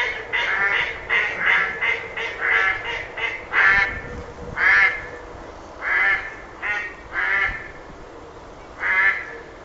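Duck quacking: a quick run of quacks, about three a second for the first four seconds, then single quacks a second or so apart, the last about nine seconds in.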